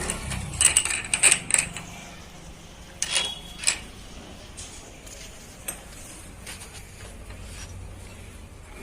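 Metal clinking and clanking in two short flurries, the first about a second in and the second around three seconds in, followed by a few faint scattered ticks.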